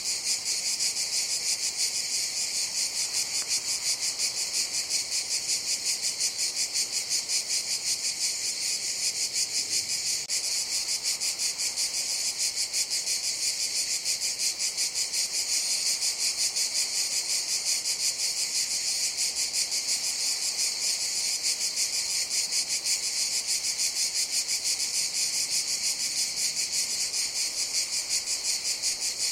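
Cicadas singing in chorus: a steady, high-pitched buzz with a fast, even pulse, unbroken throughout.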